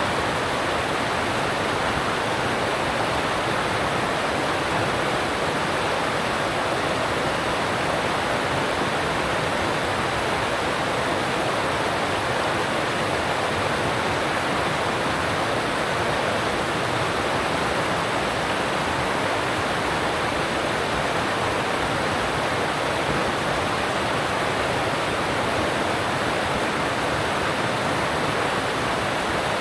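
Alpine mountain stream rushing over rocks: a steady, even rush of water with no pauses.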